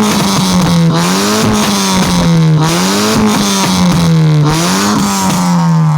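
Honda Brio engine revved hard through a full custom racing exhaust, held at high revs with the note rising and dipping about once a second under repeated throttle blips, then starting to drop near the end.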